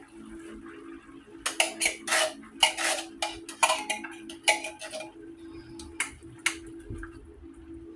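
Utensil clinking and knocking against a saucepan as corn is added to the soup, a quick run of sharp clatters through the middle of the stretch.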